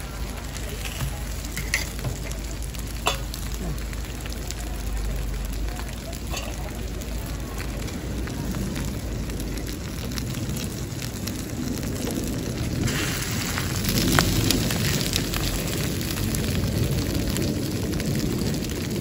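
Hotteok sizzling in oil on a large flat griddle: a steady crackling frying noise that grows louder about two-thirds of the way through, with a few sharp clicks.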